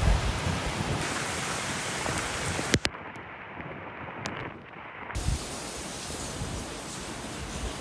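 Typhoon wind and rain noise, with gusts buffeting the microphone in low rumbles. The sound changes abruptly several times: there is a sharp click about three seconds in, a muffled stretch for about two seconds, and then the full storm noise returns.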